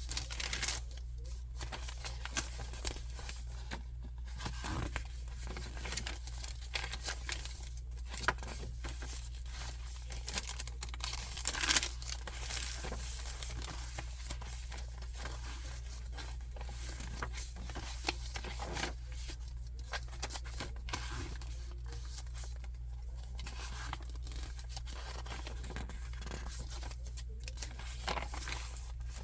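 Paper pages of a handmade junk journal being turned and handled, with irregular rustling and crinkling strokes and a louder swish about twelve seconds in, over a steady low hum.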